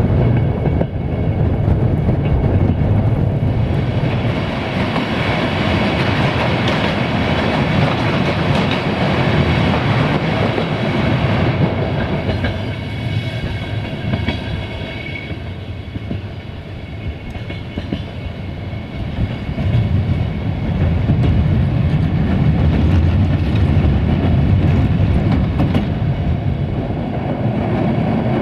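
Passenger train's coaches running along the track, heard through an open carriage window: a steady running noise of wheels on rails, heaviest low down. A thin high whine rides over it from about four to fifteen seconds in, and the noise eases off a little around the middle before rising again.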